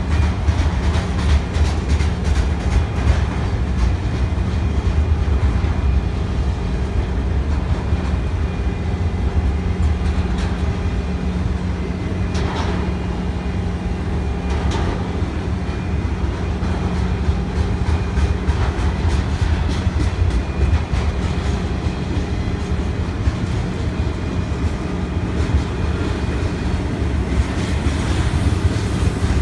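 BNSF intermodal freight train's cars rolling past at close range: a steady rumble of steel wheels on rail with a constant run of quick clicks.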